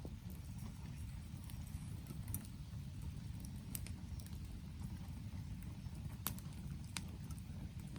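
Wood campfire burning: a handful of sharp crackles and pops, a few seconds apart, over a low steady rumble.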